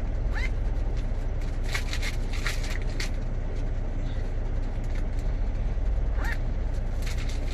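Plastic zip-top food bags being pulled open and crinkled in short crackly bursts, with a quick rising squeak twice, over the steady low rumble of an idling truck engine.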